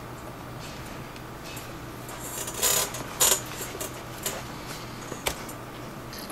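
Leather lace on a catcher's mitt being worked: a short rasp of lace drawn through the lacing holes about two and a half seconds in, then a sharp click and a few lighter taps and clicks of handling the mitt and tools.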